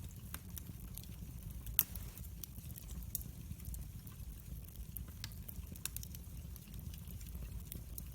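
Wood fire in a fireplace crackling: scattered sharp snaps and pops over a steady low rumble, with one louder pop about two seconds in.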